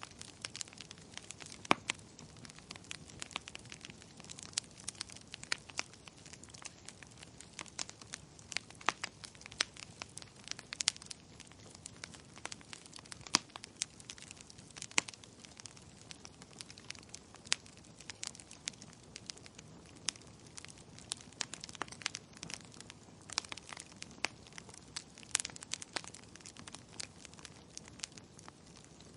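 Wood fire burning in a fireplace, with a steady low hiss and frequent sharp, irregular crackles and pops from the burning logs.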